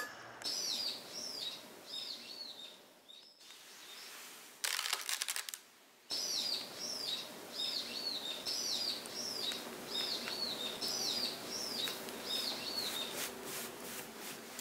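A small bird calling in a quick series of short, arching high chirps, about two to three a second, broken off for a few seconds midway, when there is a brief burst of crackling.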